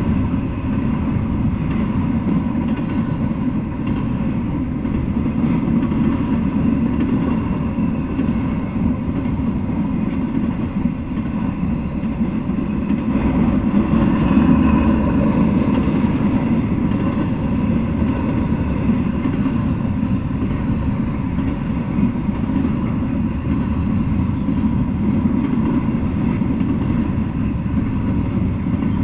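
Double-stack intermodal container train rolling past at close range: a steady noise of steel wheels on the rails, unbroken throughout.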